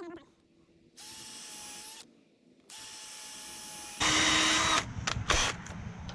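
Power drill running in short bursts on 2x4 lumber: two brief steady runs with a whine, then a louder run about four seconds in, followed by a few knocks.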